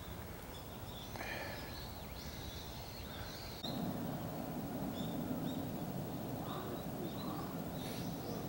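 Outdoor ambience with small birds giving short, high chirps again and again. A little past halfway the background noise abruptly steps up, louder and fuller.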